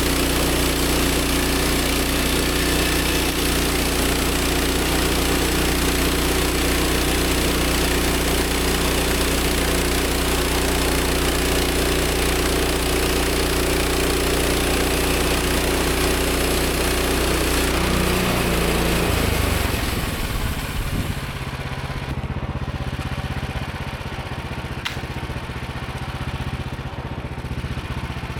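Woodland Mills 130 MAX band sawmill's gas engine running at full throttle while the band blade cuts through a cedar log; about 19 seconds in the engine slows to idle and the cutting noise stops. A single sharp click comes a few seconds later.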